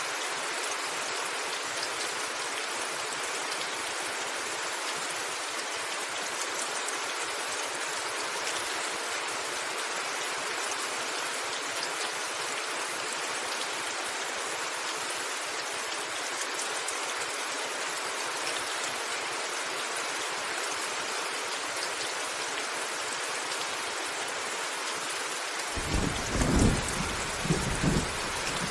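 Steady rain drumming on a rooftop. Near the end, thunder starts rumbling low in uneven rolls.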